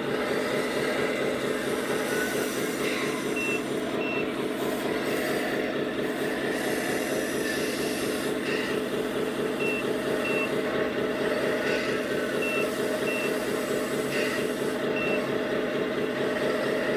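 Simulated diesel engine sound from a 1/14 scale RC truck's sound module, running steadily, with pairs of short high reversing beeps repeating every few seconds.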